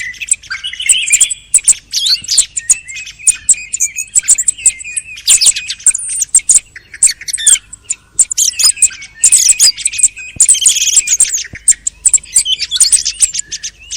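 Thrushes singing and calling: a dense, unbroken run of quick high chirps and whistled phrases, several recordings mixed together.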